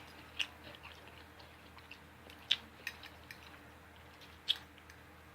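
Quiet, close-miked eating sounds: soft chewing with a few short wet clicks of the mouth and lips.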